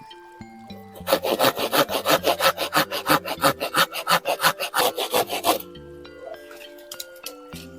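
A saw cutting through wood in quick, even back-and-forth strokes. The strokes begin about a second in and stop abruptly after about four and a half seconds.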